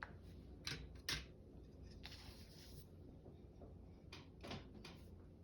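Paper being cut with scissors and handled: a few faint, sharp snips and clicks, with a brief paper rustle in the middle.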